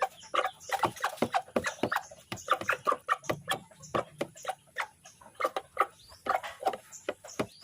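Chickens clucking: many short, irregular calls in quick succession.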